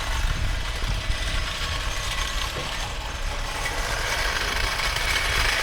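Mercedes-AMG GT S twin-turbo V8 with aftermarket downpipes running steadily while driving, heard from inside the cabin with tyre and road noise.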